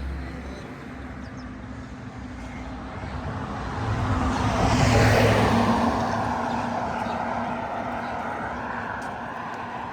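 A motor vehicle passing close by on a city street, growing louder to a peak about five seconds in and then fading away. A faint wavering whine lingers after it passes.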